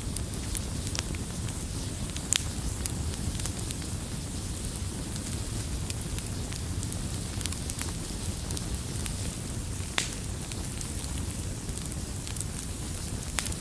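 Wood logs burning in a fireplace: a steady low rumble of flame with frequent crackles and sharp pops scattered throughout, the loudest pops about two seconds in and near ten seconds.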